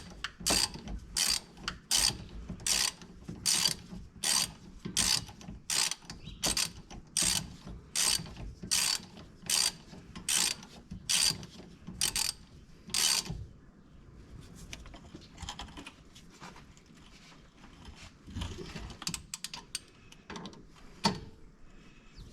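Ratchet wrench clicking in steady, even strokes, about one burst of clicks every three-quarters of a second, that stop about thirteen seconds in. Softer tool clatter follows, with one sharp knock near the end.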